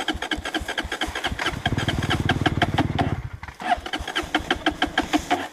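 Dirt bike engine being cranked to start while the bike lies on its side, turning over in fast, even pulses, with a short stop about three and a half seconds in. It does not settle into a steady run, a sign of a hard start that the riders take for a flooded or hot engine.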